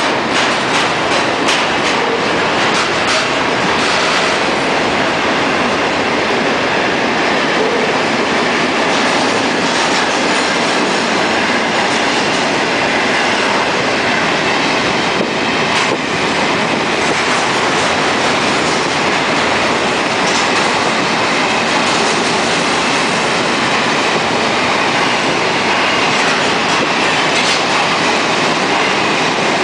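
Freight train wagons rolling past close by: a loud, steady rumble of steel wheels on the rails, with scattered clicks as the wheels run over the track.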